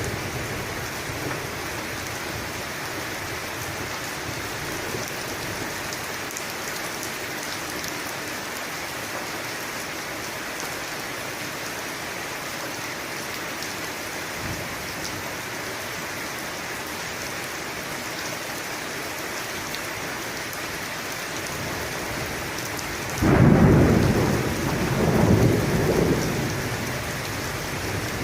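Steady rain falling, with a sudden rumble of thunder near the end that swells twice before fading away.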